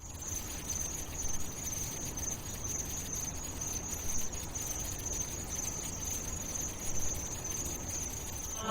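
Steady, high, insect-like chirring over a low rumble, as a recorded ambience bed.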